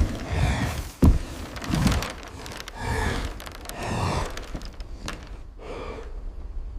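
A voice breathing heavily in a string of sighs and gasps, about one a second, with a sharp thud about a second in.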